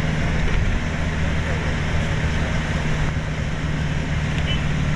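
A vehicle's engine running steadily with a low hum, heard from inside the vehicle while it drives.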